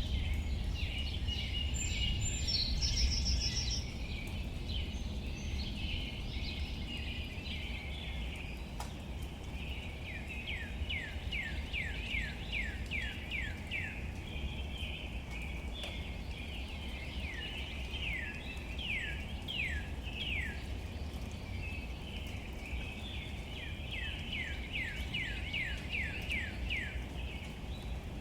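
A songbird singing runs of quick falling whistled notes, several a second, three times, with scattered chirps early on, over a steady low outdoor rumble.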